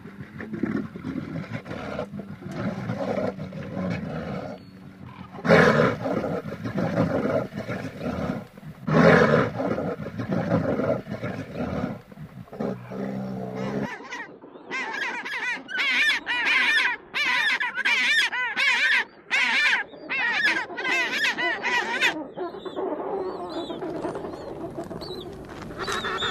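Animal calls from more than one animal: low, rough calls during the first half, then a run of short repeated high calls at about two a second, followed by softer mixed calls near the end.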